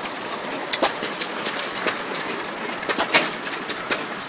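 A 2 hp Fairbanks-Morse vertical hit-and-miss gasoline engine running, with sharp exhaust pops at uneven intervals as it fires on some strokes and coasts through others.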